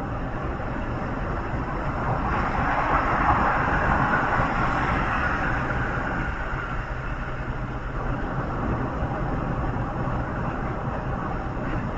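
Steady road noise and low rumble of a vehicle on the move. A louder rushing hiss comes in about two seconds in and fades away over the next few seconds, like another vehicle passing close by.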